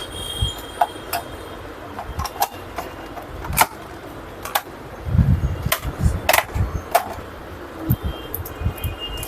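Irregular clicks and knocks of monitor parts being handled and fitted together during reassembly, with a few heavier thumps in the middle.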